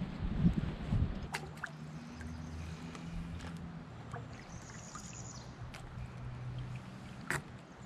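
Kayak paddling: paddle strokes in the water with water trickling and dripping, some low bumps in the first second, and a couple of sharp clicks, one early and one near the end.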